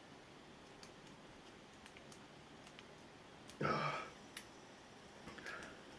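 Faint, scattered small clicks of a pick and tension tool working the pins of an ABUS 83 padlock cylinder. A brief, louder rush of noise comes about three and a half seconds in.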